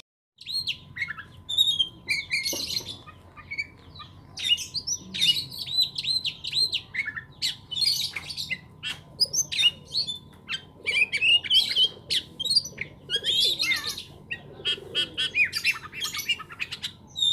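Lovebird chattering in a long, unbroken run of rapid high chirps and warbles, starting about half a second in.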